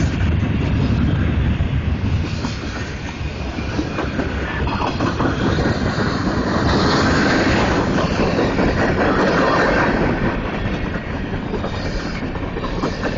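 Freight train's gondola cars and a lumber flat car rolling past, steel wheels clattering over the rail joints in a continuous rumble, a little louder around the middle.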